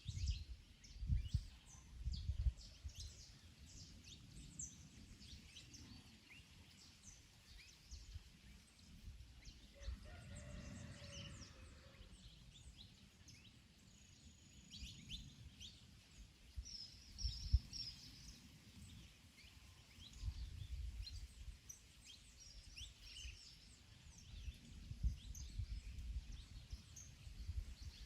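Garden ambience: many small birds chirping in short calls, with wind gusting in uneven low rumbles. Around ten seconds in, a brief pitched hum lasting about two seconds rises above the rest.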